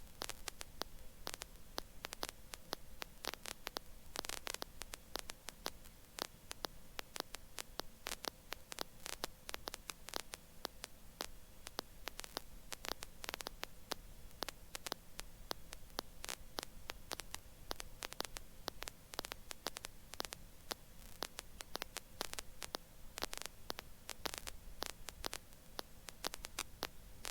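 Faint crackling static over a steady electrical hum on the helicopter's intercom audio line, with irregular clicks throughout.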